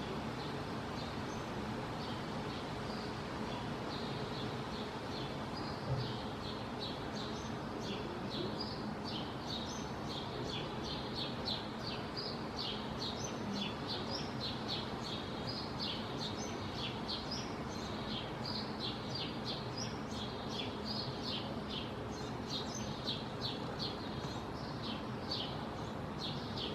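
Small birds chirping over and over, in quick short notes, above a steady background rumble, with a single brief thump about six seconds in.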